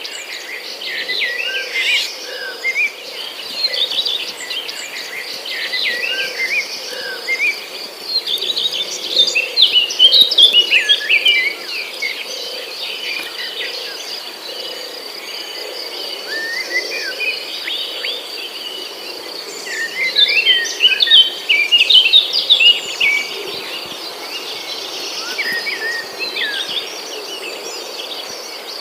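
Jungle ambience: a steady high insect drone under many short chirping and twittering bird calls. The bird calls come thickest in two busy spells, about a third of the way in and again past the middle.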